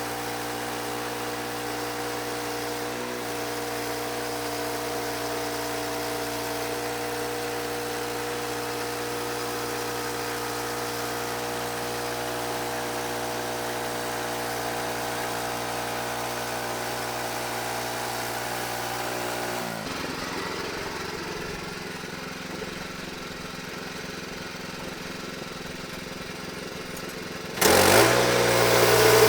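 Engine running steadily at an even speed. About two-thirds of the way through, its note drops and changes. Near the end a much louder surge of noise comes in.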